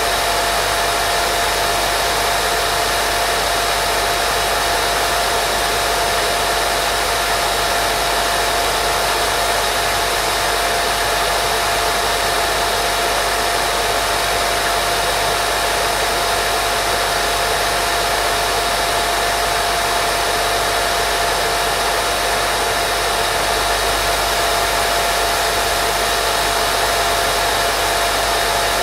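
Steady white noise for baby sleep: an even, unbroken hiss with a thin steady tone running through it.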